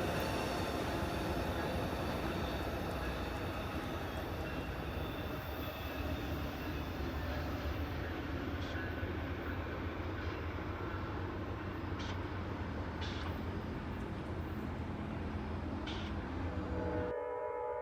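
Amtrak passenger train rolling past with a steady rumble and wheel noise that slowly eases off, with a few sharp clicks of wheels over the rails. Near the end the sound cuts off suddenly and a few steady tones begin.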